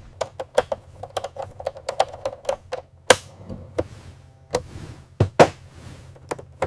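Hand work on fittings: light clicks and taps in quick, irregular succession, then a few sharper knocks about three and five seconds in.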